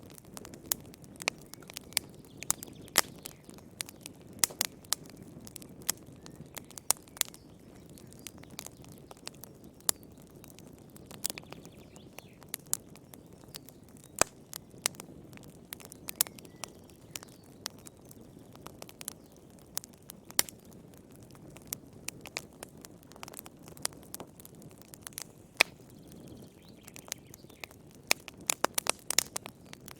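Wood fire crackling in a fireplace: irregular sharp pops and snaps over a low, steady rumble of burning, with a quick flurry of pops near the end.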